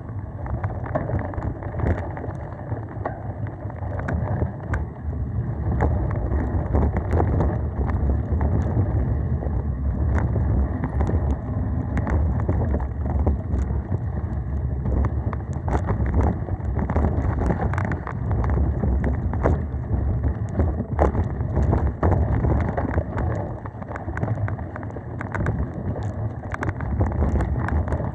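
Mountain bike riding fast over dirt singletrack: a steady rush of tyre and wind noise on the microphone, with frequent irregular clatters and rattles from the bike over bumps.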